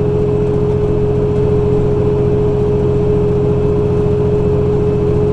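Truck engine and road noise while driving, a steady low drone with a constant hum running under it.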